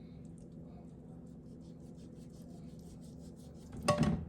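Faint rubbing and scraping as raw chicken thighs are handled and trimmed on a board, over a steady low hum, with one sharp knock near the end.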